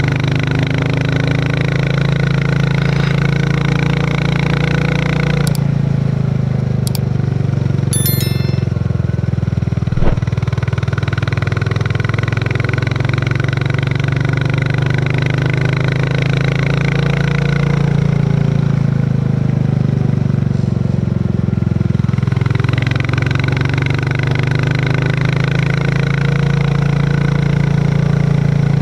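Royal Enfield Classic 350's single-cylinder engine thumping steadily as the bike is ridden, with a short knock about ten seconds in.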